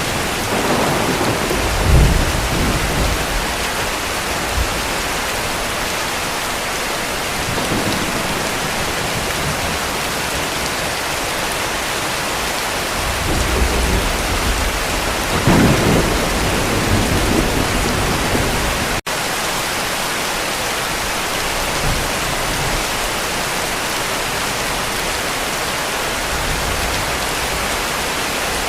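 Steady heavy rain with low, rolling distant thunder: a rumble about two seconds in and a longer one building from about 13 to 17 seconds. A split-second dropout in the sound comes about two-thirds of the way through.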